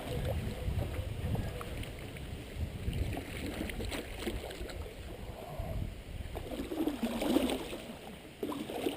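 Kayak being paddled on a river: paddle strokes in the water with scattered light knocks, over a low rumble of wind on the microphone.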